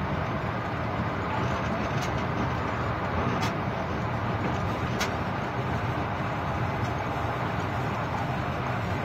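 Steady running noise of a moving train heard from inside the locomotive cab, with a few faint clicks about two, three and a half and five seconds in.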